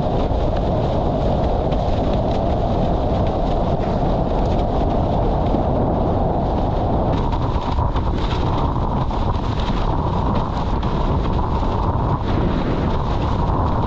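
Heavy wind buffeting the microphone with a steady rush of water, as from a windsurf board sailing at speed. The noise holds loud and even throughout, its character shifting slightly about halfway through.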